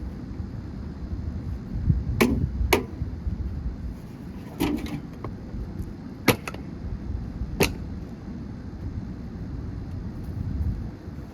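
Gutted microwave oven being smashed: about seven sharp hits spread over several seconds, some coming in quick pairs.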